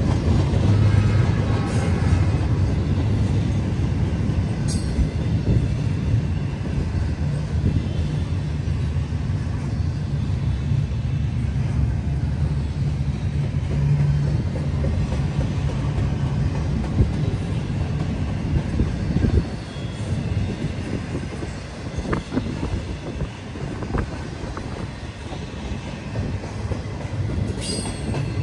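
Canadian National freight train of double-stack intermodal container well cars rolling past: a steady low rumble of steel wheels on rail, with occasional sharp metallic clanks. The rumble eases a little about two-thirds of the way through.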